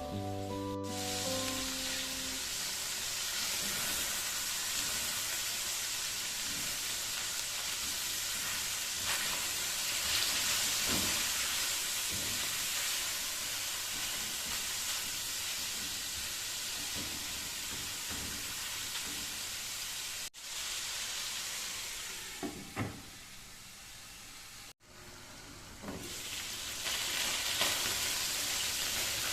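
Food sizzling as it fries in a hot pan, with a few short scrapes and knocks of a utensil stirring it. Two abrupt breaks split it, with a quieter stretch of frying between them.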